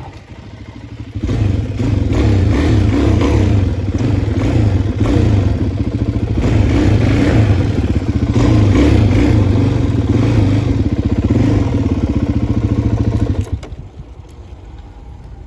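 Dual-sport dirt bike engine running loud while being ridden. It comes up sharply about a second in and drops away suddenly near the end.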